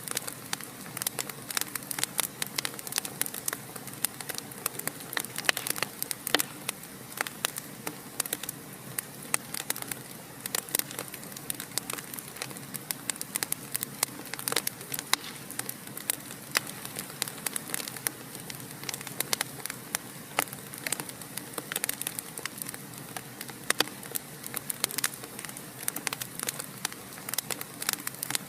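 Fire crackling in a fireplace: dense, irregular pops and snaps over a steady low hiss, with no letup.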